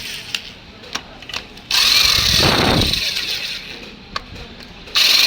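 Power drill run in short bursts: a few light tool clicks, then the drill starts suddenly and winds down over about a second and a half, and starts again near the end, driving the Allen bolts of a home-made flywheel puller.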